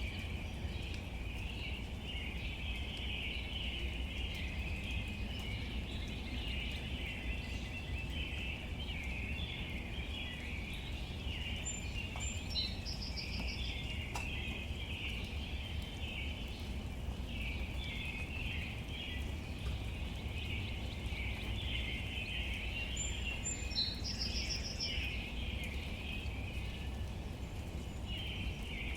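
Outdoor nature ambience: a dense, steady chorus of small chirps over a low rumble, with a bird's short trilled call twice, about twelve seconds apart.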